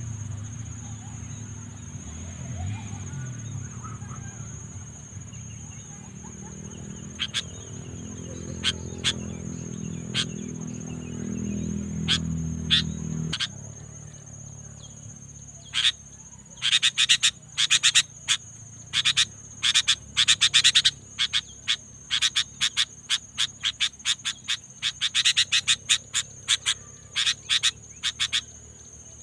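Steady high-pitched insect drone throughout, with a low hum under it that stops about halfway. After that come rapid runs of short, sharp clicking chirps, louder than the drone.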